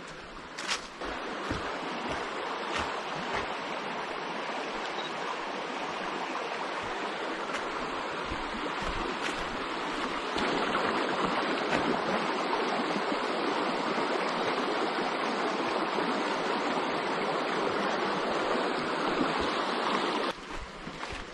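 Steady rush of flowing water, like a stream, a little louder from about halfway through and cutting off suddenly near the end.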